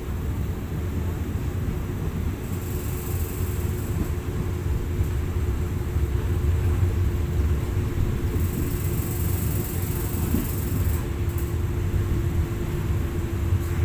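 Wind rushing over the microphone at the open window of a moving passenger train, over the low rumble of the train running along the track and a steady hum. A higher hiss swells about three seconds in and again around nine seconds in.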